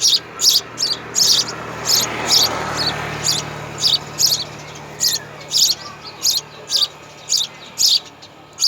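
A small bird chirping over and over, a short, high chirp about twice a second, over a faint low hum.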